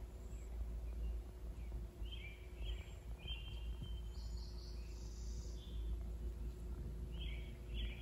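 Small birds calling outdoors in short clusters of chirps, about two seconds in, again higher-pitched in the middle, and once more near the end, over a low steady rumble.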